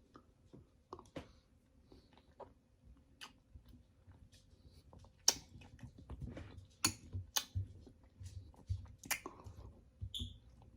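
Close-miked chewing of fresh berries and pomegranate seeds: short clicks and small crunches, sparse at first and more frequent from about five seconds in.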